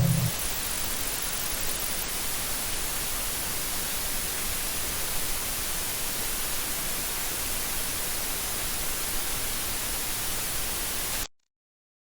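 Steady hiss of static-like white noise with a faint high whine, cutting off abruptly near the end into dead silence.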